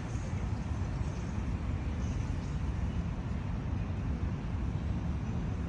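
Steady low rumble of city road traffic heard as open-air background, with no music or voices.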